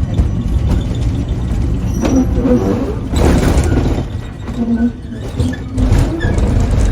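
Angels Flight funicular car running along its track: a steady low rumble, with a louder rushing noise about three seconds in and again near the end.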